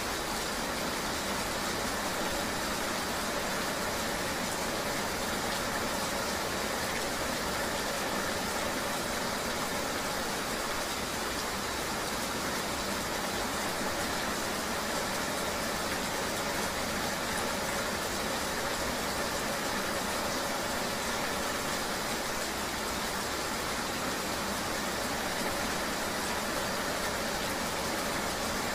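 Steady ambience of a vehicle running in the rain: an even, unbroken wash of noise with a faint steady hum beneath it.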